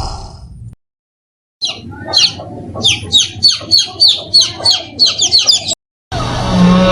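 A bird chirping repeatedly: about a dozen short, high calls, each sweeping downward in pitch, coming two or three a second. A short gap follows, and near the end a loud, steady sound with a low hum starts abruptly.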